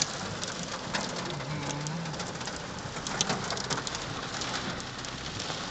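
Heavy rain and hail pelting down in a storm: a steady hiss of rain with many sharp ticks of hailstones striking hard surfaces, thickest about three to four seconds in.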